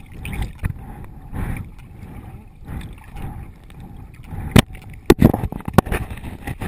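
Water sloshing and gurgling close around a GoPro camera in a swimming hole, uneven and choppy. A few sharp knocks come in the second half, about four and a half, five and almost six seconds in.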